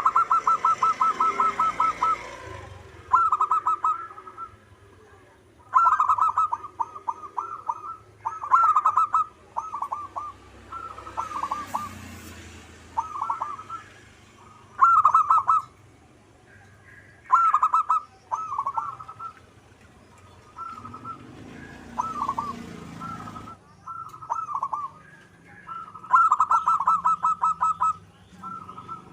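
Zebra dove (perkutut) cooing its song: about a dozen phrases of rapid staccato notes, each a second or two long, with short pauses between.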